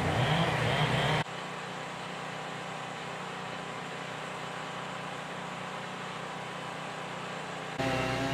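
Machine engine running steadily, broken by abrupt cuts: louder machinery noise stops about a second in, and a different, louder pitched engine sound starts near the end.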